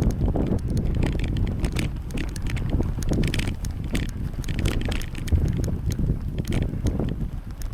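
Wind buffeting the microphone on a moving bicycle, a low uneven rumble, with scattered light clicks and rattles from the bike over the road.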